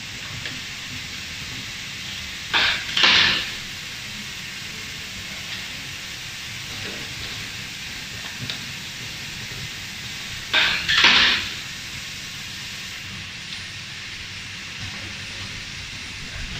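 A 200 W fiber laser welding machine firing twice, each time a short burst of noise followed at once by a longer one of about half a second, the two firings some eight seconds apart, over the machine's steady background noise.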